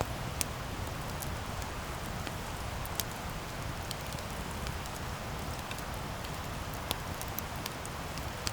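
Wood campfire burning: a steady hiss and rush with scattered sharp crackles and pops, the loudest pop about seven seconds in.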